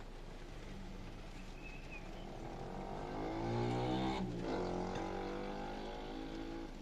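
A vehicle passing close by: its sound grows louder, peaks about four seconds in and drops in pitch as it goes past, over a steady low rumble of road noise.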